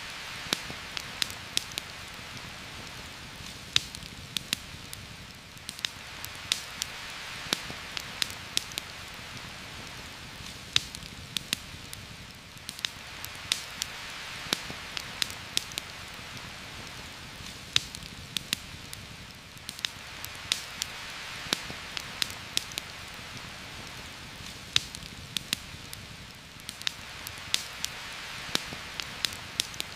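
Heavy rain falling through forest, a steady hiss that swells and eases every five or six seconds, with frequent sharp crackles and pops from a campfire.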